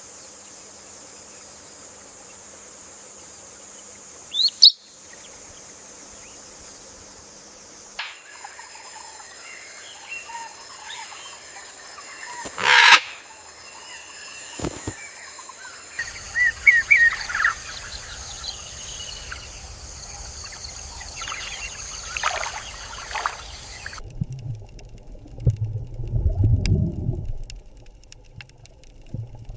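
Wild birds chirping and calling over outdoor nature ambience, with the background changing abruptly every several seconds. A strong low rumbling sound comes near the end.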